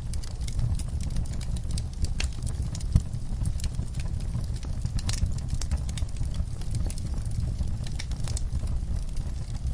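Fireplace fire burning, with frequent sharp crackles and one louder pop about three seconds in, over a steady low rumble of the flames.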